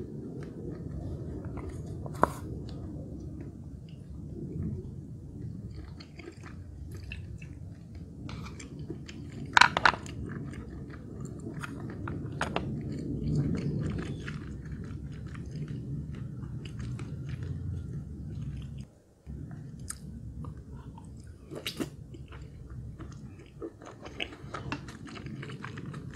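Close-miked chewing of soft soup dumplings, continuous and wet, with a few sharp clicks of the spoon against the glass dish, the loudest about ten seconds in.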